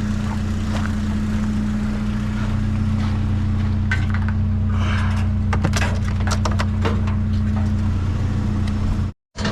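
A vehicle engine idling steadily, with clattering and scraping of junk being handled about four to six seconds in. The sound cuts out briefly near the end.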